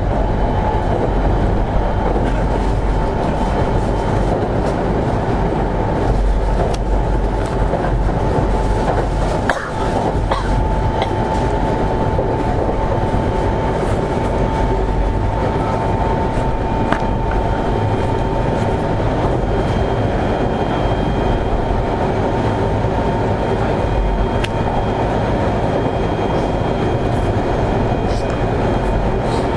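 Running sound inside a Semboku Rapid Railway 7020 series electric train: a steady rumble of wheels on the rails with a steady hum above it. There is a brief dip in level about ten seconds in.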